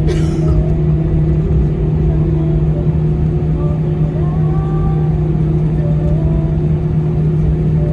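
Steady cabin drone of an Airbus A319 airliner's jet engines and rushing air, heard inside the cabin: a low rumble with a constant hum, and a brief falling hiss right at the start.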